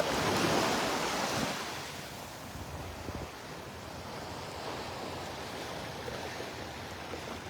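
Small Gulf of Mexico waves washing up on a sandy beach: a louder surge of surf in the first second and a half, then a steady, softer wash.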